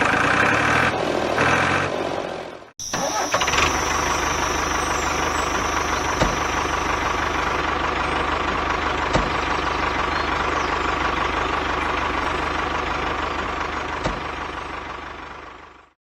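Background music for the first few seconds, then after a sudden cut a steady engine-like running sound with a deep low hum and a few light knocks, fading out near the end.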